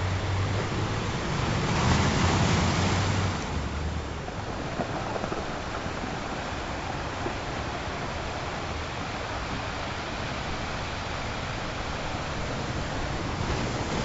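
Ocean surf washing steadily, with one louder swell about two seconds in. A low steady hum of tones sits under the first few seconds.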